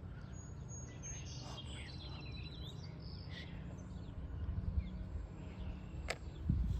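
Wild birds chirping and calling outdoors, short high chirps and thin whistled notes mostly in the first half, over a steady low rumble. A sharp click about six seconds in.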